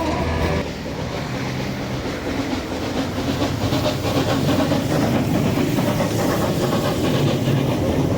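Background music cuts off about half a second in, giving way to a narrow-gauge train running along the track, a steady rumbling noise with fine clatter.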